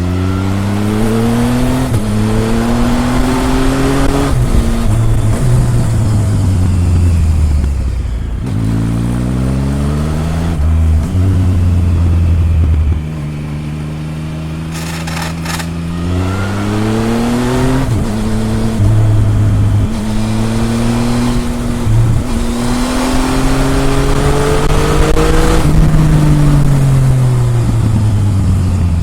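Triumph Tiger 1050's inline three-cylinder engine heard at the exhaust, accelerating hard with the pitch climbing and dropping back at each gear change. About halfway through it goes quieter and steady off the throttle, then pulls up through the gears again and winds down near the end.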